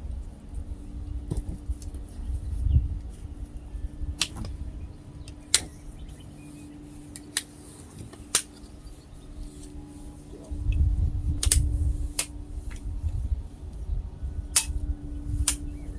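A run of sharp, irregularly spaced clicks and snaps, about eight in all, from working lengths of alkathene pipe, plausibly cutting them. Low wind rumble on the microphone swells for a couple of seconds past the middle.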